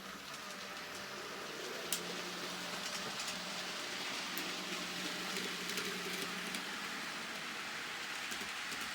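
Model train running on the layout's track: a steady hiss of wheels on rails over a faint motor hum, with a few sharp clicks, one about two seconds in.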